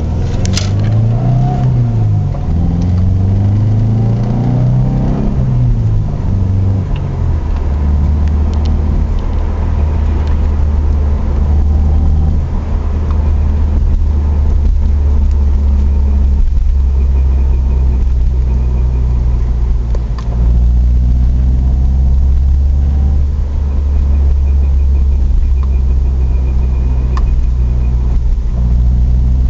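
Subaru Legacy's flat-four engine and drivetrain running while driving. The pitch rises and falls over the first few seconds, then settles into a steady drone. A faint high whine comes and goes over it at times, the kind of squeaking/whining that this car makes when decelerating in 3rd and 4th gear, which stops as soon as the clutch is disengaged.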